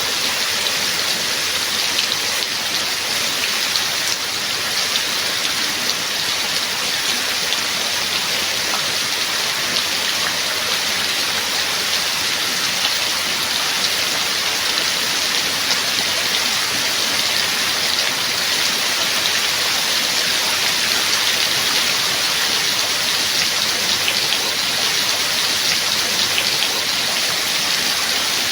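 Rain falling steadily: an even hiss with a few separate drops standing out.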